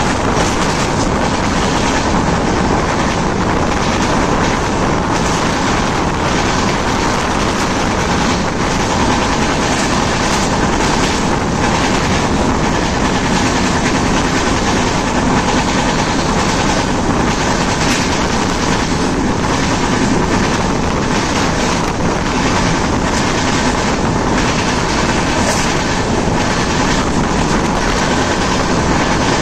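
Passenger train running at speed: a steady rumble and rush of wheels on the track, with faint clicks of the wheels passing over rail joints.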